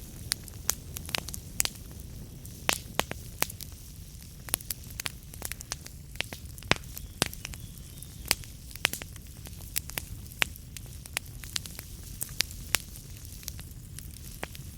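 Wood fire burning in a fireplace: irregular sharp crackles and pops from the burning logs, a few a second, over a steady low rumble of the flames.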